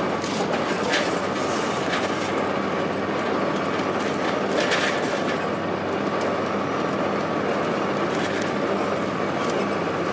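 Inside a 2002 Blue Bird transit bus under way: its Cummins ISC diesel running steadily with road noise, a faint steady whine, and brief rattles of the body and fittings about a second in and again near the middle.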